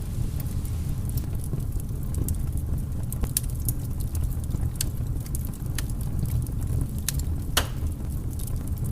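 Wood fire crackling: irregular sharp pops and snaps over a steady low rumble, with one louder pop about seven and a half seconds in.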